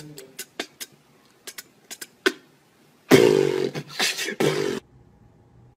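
A person beatboxing: a string of sharp mouth clicks, then about three seconds in a loud, buzzing, breathy blast lasting about a second and a half.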